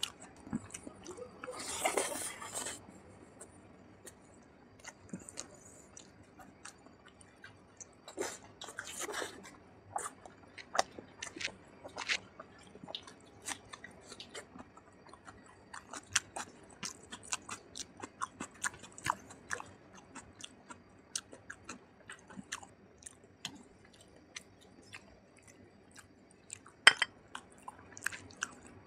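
Close-miked chewing of rice and curry eaten by hand, with many short wet mouth clicks and smacks and crunchy bites of raw onion. Two longer hissy bursts come about two and nine seconds in, and one sharp click near the end is the loudest.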